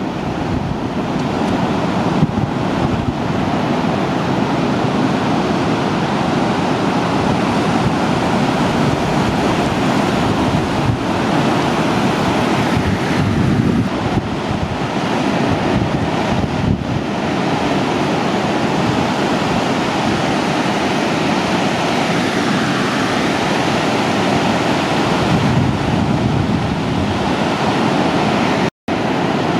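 Ocean surf breaking steadily, with wind on the microphone. The sound briefly cuts out near the end.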